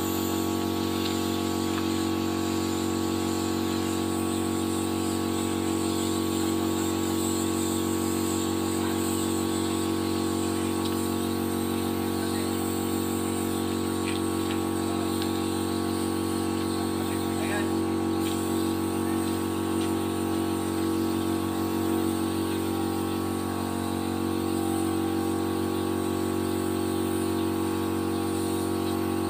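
A motor running at a constant speed: a steady, unchanging hum with no breaks.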